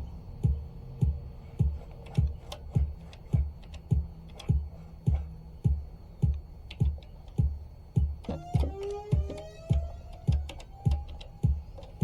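Electronic music from an Elektron Octatrack sampler-sequencer: a steady kick-drum beat a little under two hits a second with sharp clicking percussion over it. About two-thirds of the way in, a wavering, gliding synth line comes in on top of the beat.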